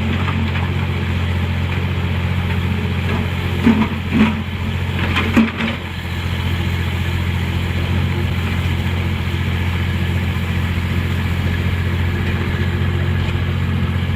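Heavy machinery's engine running steadily at a constant pitch, with a few short louder sounds about four seconds in and again about five and a half seconds in.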